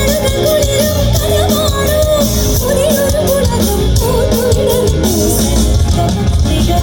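Live amplified band music through a PA system: a female vocalist sings a wavering melody over heavy bass and drums.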